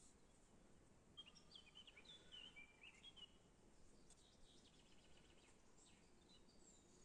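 Faint bird chirps over near silence: a quick run of short, gliding chirps about a second in, and scattered fainter chirps later.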